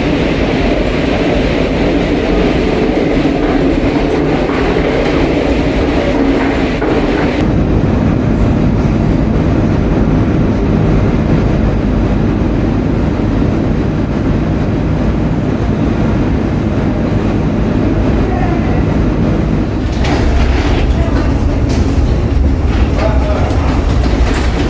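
Rumble and rattle of a rail carriage running, heard from inside it. The sound changes abruptly about a third of the way in and again near the end.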